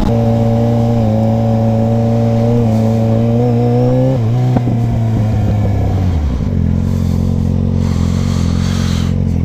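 Motorcycle engine running steadily, then its speed drops about four to six seconds in and it settles into a steady, lower idle.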